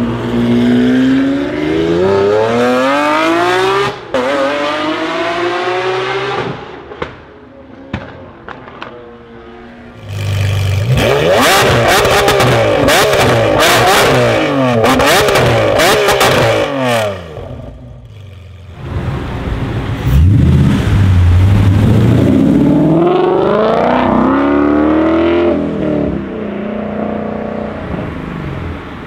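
Lamborghini Aventador SVJ's V12 accelerating hard, its revs climbing with a gear change partway through. It is then revved sharply up and down with loud cracks and pops from the exhaust. After a short lull another car's engine accelerates away, its pitch rising.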